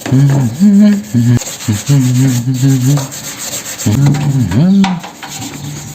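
Hand scrubbing of a microwave's surface, the cleaning pad rubbing and squeaking in repeated strokes. Each stroke gives a low squeal that dips and rises in pitch.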